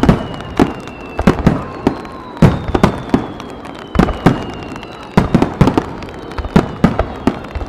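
Fireworks display: aerial shells bursting in a rapid, irregular series of sharp booms, often two or three a second, with high whistles gliding slowly down in pitch between them.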